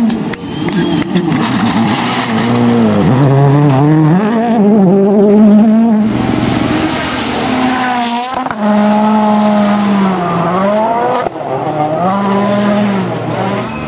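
Rally car engines running hard at speed, their pitch climbing and dropping again several times as the drivers shift and lift. The sound changes abruptly twice, about six and eleven seconds in.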